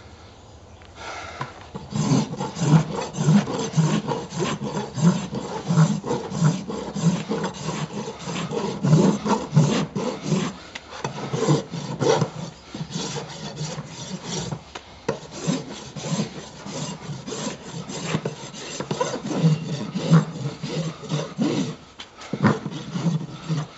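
Farrier's rasp worked back and forth over a horse's hoof and the hardened epoxy on it, in a steady run of rough strokes about one and a half a second, with a couple of short pauses.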